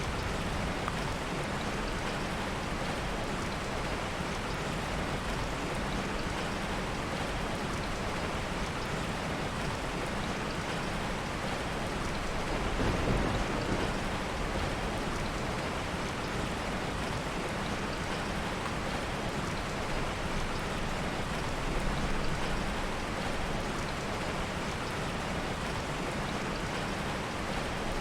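Heavy rain falling steadily, with a brief low rumble of soft thunder about halfway through.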